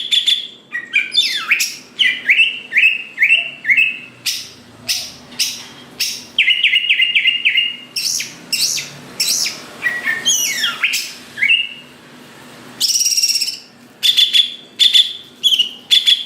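Cucak ijo (a green leafbird) in full, continuous song, which keepers call gacor. It is a varied run of quick repeated chirps and sweeping whistled glides, with a short harsh, rasping phrase about thirteen seconds in.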